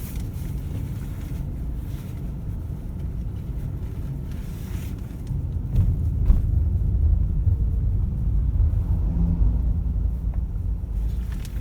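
Car driving, a steady low rumble of road and engine noise that grows louder a little over halfway through.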